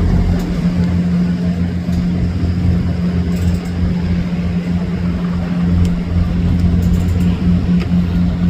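A tugboat's diesel engine running steadily while towing loaded barges: a loud, low drone that holds one constant pitch.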